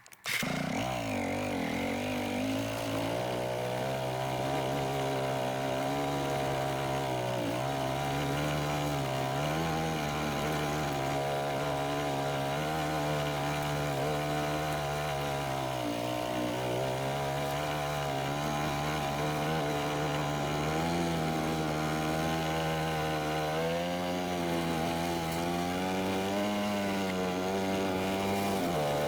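Dirt bike engine running while riding, its pitch wavering and dipping now and then with the throttle.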